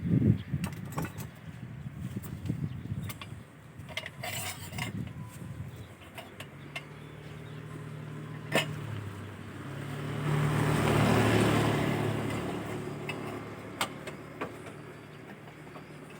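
Metal parts and tools clinking and knocking during motorcycle work. Then a motor vehicle engine hum comes in, swells to its loudest about eleven seconds in and fades away.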